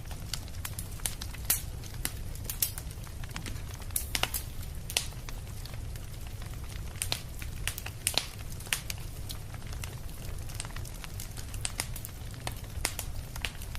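Fire burning, crackling and popping irregularly over a steady low rumble, with a few louder pops.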